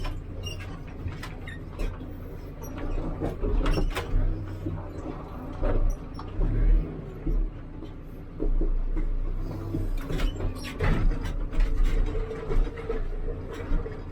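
Hidromek 102B backhoe loader's diesel engine running, its loudness rising and falling as it works, with repeated sharp clanks and knocks from the machine while it backfills the hole.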